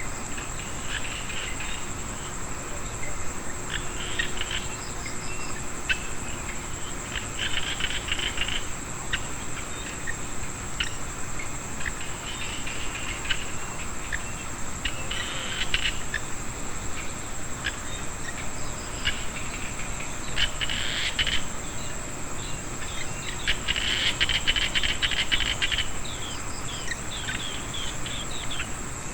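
A rice-field chorus after rain: an insect trill holds one steady high pitch throughout. Small frogs call over it in rapid clicking bursts of about a second, every few seconds, with the longest and loudest near the end.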